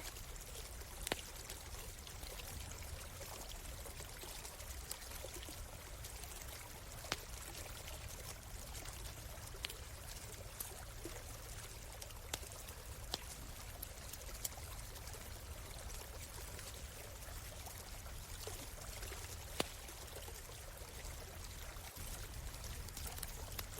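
Stream water running steadily, with a campfire's occasional sharp pops and crackles scattered through it.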